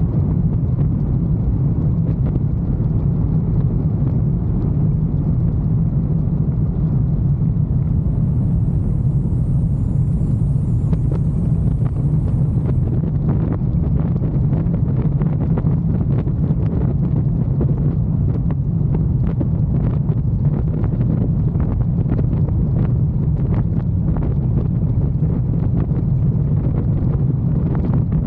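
Motorcycle running steadily while riding, a constant low hum mixed with wind buffeting on the microphone.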